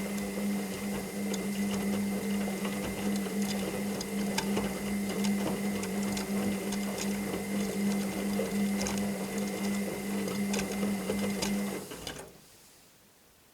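Washing machine running, a steady motor hum with a fainter higher tone and scattered light clicks, which stops abruptly about twelve seconds in.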